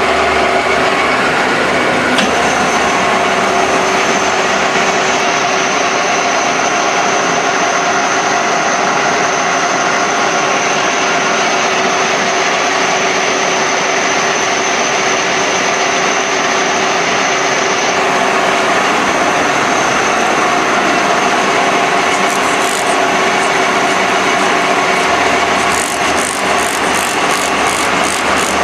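A machine tool running steadily with a grinding, rubbing noise and a steady high whine. Near the end comes a run of rapid clicks.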